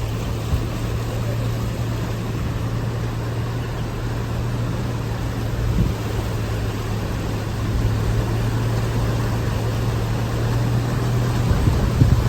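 Heavy rain falling as a steady rushing noise, with a steady low hum underneath.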